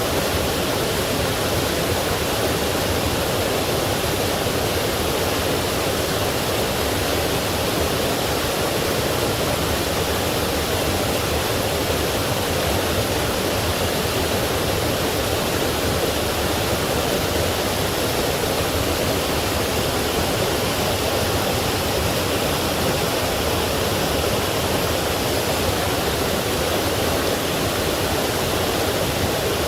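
Forest stream rushing over small waterfalls: a steady, even water roar with no change.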